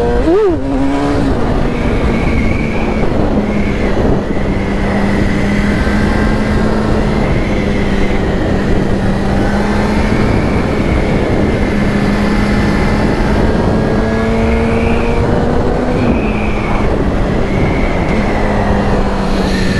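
2008 Yamaha R6's inline-four engine running steadily at cruising speed under heavy wind noise. A thin high whistle, typical of wind over the helmet, rises and falls throughout.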